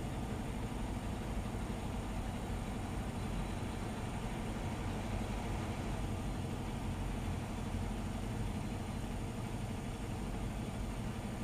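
Vehicle engine idling steadily: a low, even hum with no change in speed.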